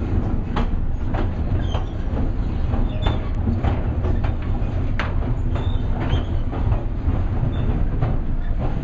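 Ride noise inside a moving train carriage: a steady low rumble with the wheels clicking over rail joints about once or twice a second, unevenly spaced.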